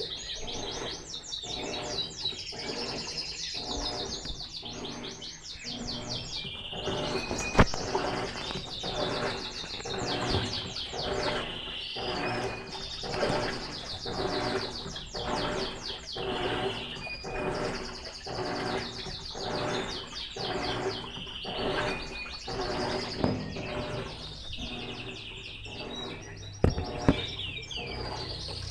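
Electrolux LTE12 top-loading washing machine agitating in its rinse, a regular back-and-forth swish about once a second. Small birds chirp busily over it throughout, and a couple of sharp knocks stand out, one about a third of the way in and two close together near the end.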